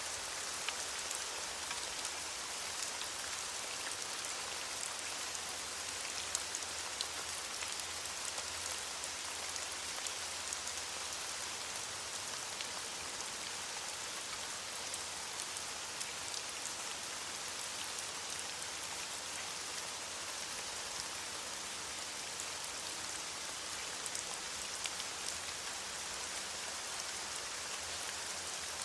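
Steady rain falling on leaves: an even patter with many small, sharp drop ticks throughout.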